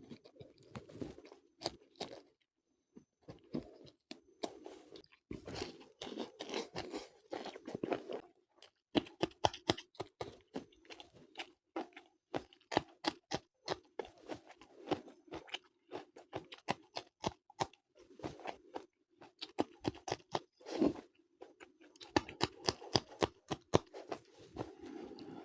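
Close-miked chewing of raw chillies: quick runs of crisp crunches, several a second, broken by short pauses between bites.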